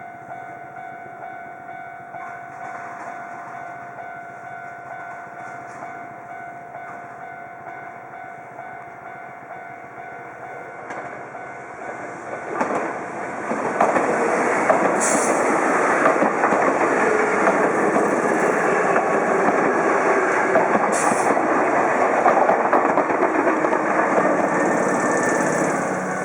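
Electric commuter train approaching and passing close by, its wheels clattering over the rail joints. It comes up about twelve seconds in and stays loud to the end.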